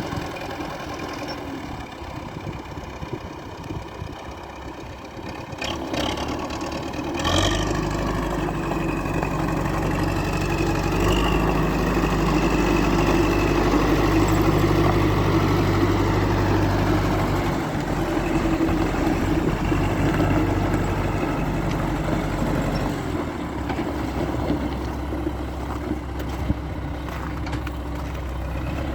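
MTZ-82 tractor's four-cylinder diesel engine running. About seven seconds in it gets louder and heavier, holds there for about ten seconds, then eases off, with another change in note later on.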